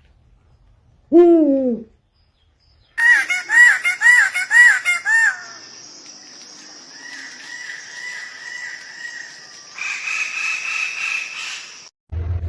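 A run of different bird calls, one cut after another: a single falling hoot, then five quick rising-and-falling calls, then a long steady high-pitched call that changes near the end.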